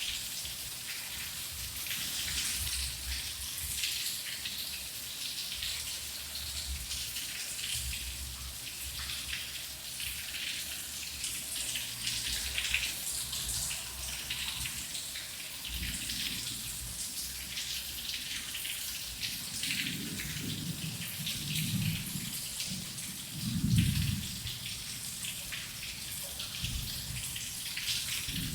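Heavy rain falling: a steady hiss thick with individual drops, under a low rumble. Deeper rolls of thunder swell in the last third, the loudest about five seconds before the end.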